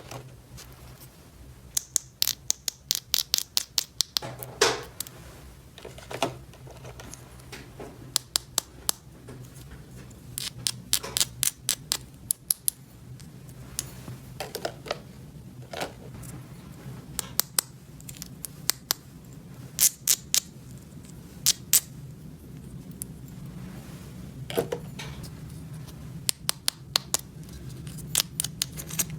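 Small hard plastic toy pieces being handled and clicked together, giving quick clusters of sharp light clicks and taps with a few softer rustles between them.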